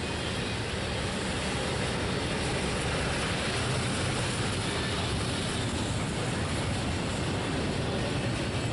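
Double-stack intermodal freight train's loaded well cars rolling steadily past: continuous noise of steel wheels running on rail.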